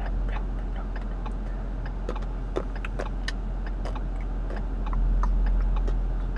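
Car engine idling, heard inside the cabin as a low, steady rumble, with a quick, light ticking throughout. The rumble swells a little about five seconds in.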